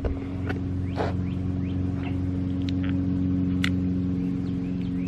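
A steady low mechanical hum from a running machine, with a few short high chirps and ticks over it.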